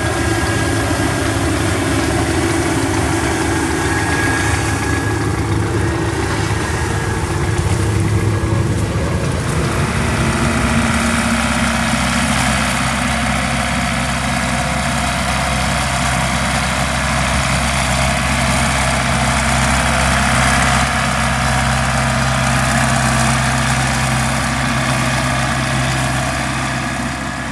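The diesel engine of corn-harvest farm machinery running steadily. About ten seconds in its note shifts, then holds even.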